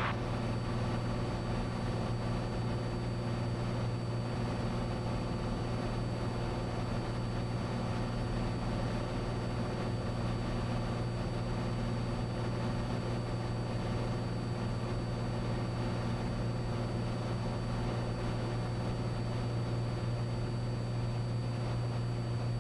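Steady drone of a Cessna 182's engine and propeller heard inside the cabin in flight, a constant low hum that does not change.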